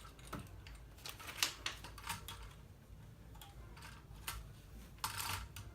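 LEGO plastic bricks clicking and rattling as pieces are handled and snapped together, in irregular short clicks.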